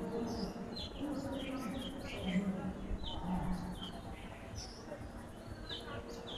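Small birds chirping in the background: short, falling, high chirps repeating about every half second, with intermittent low pitched tones early on and through the middle.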